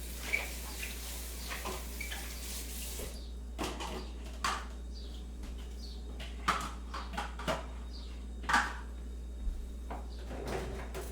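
Kitchen sounds: a rush of water-like hiss for the first three seconds, then scattered short clinks and knocks of crockery and utensils, over a steady low hum.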